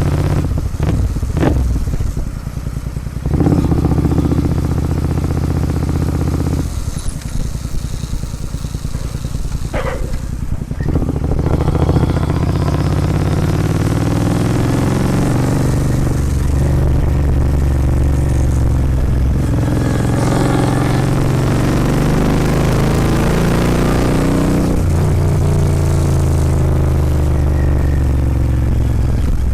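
Royal Enfield Continental GT 650's parallel-twin engine through a Red Rooster aftermarket exhaust, the motorcycle under way with the revs rising and falling several times through the throttle and gears.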